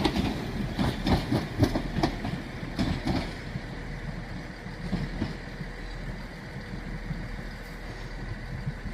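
Transport for Wales Class 197 diesel multiple unit rolling through, its wheels clicking over rail joints and pointwork for about three seconds. The sound then fades to a low steady rumble.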